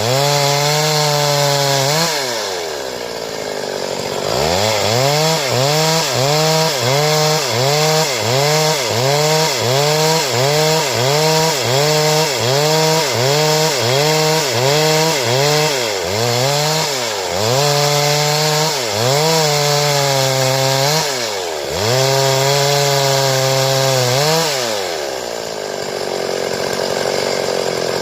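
Stihl chainsaw cutting wood into boards. The engine pitch dips and recovers about one and a half times a second as the chain bites, and twice it falls away to lower revs before revving back up.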